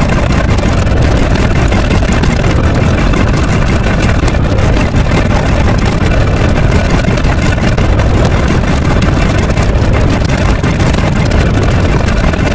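A loud, steady, dense rumbling noise, heaviest in the low range, engine-like, that keeps an even level without rhythm or change.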